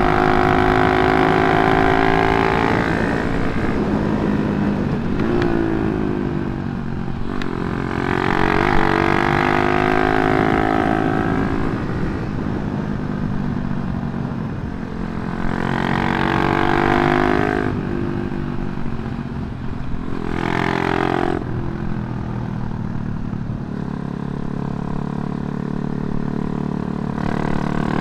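Yamaha Jupiter MX motorcycle, its single-cylinder four-stroke engine bored up to 177cc, running through a CLD C7 aftermarket silencer while being ridden. The exhaust note rises under throttle about four times and drops back in between.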